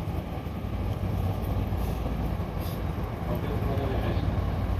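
Hankyu local electric train running between stations, heard from inside the car: a steady low rumble of wheels on rails with a continuous low hum.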